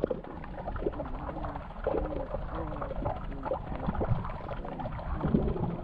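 Short, wavering whining calls, several in a row, over a dull background with scattered clicks: puppies whimpering.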